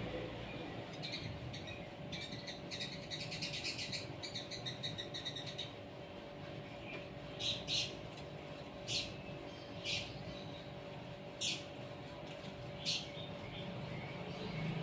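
Small songbirds chirping: a quick run of high twittering for the first few seconds, then single sharp chirps about every second or so.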